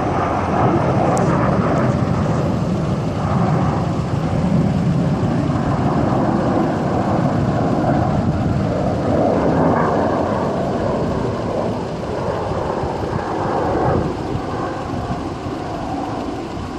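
Jet engines of display aircraft passing overhead: a loud, steady rumbling noise that swells a few times and eases off a little near the end.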